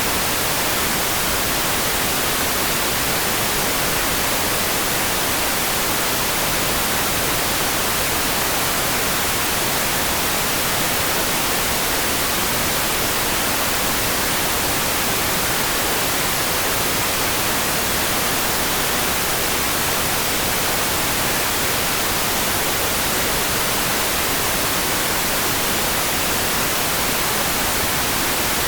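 A sleep-sound track of heavy rain: an even, unchanging hiss with no separate drops heard, close to white noise.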